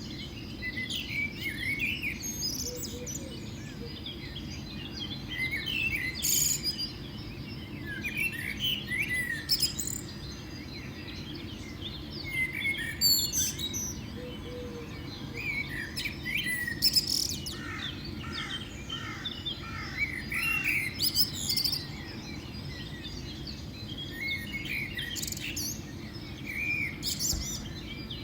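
Several birds chirping and calling in quick, irregular short notes over a steady low background rumble.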